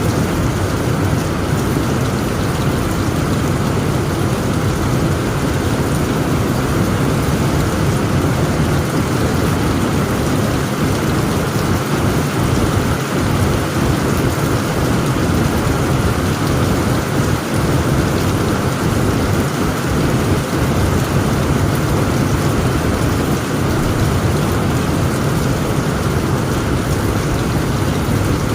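Heavy rain drumming steadily on a tent roof, with a continuous low rumble of thunder underneath.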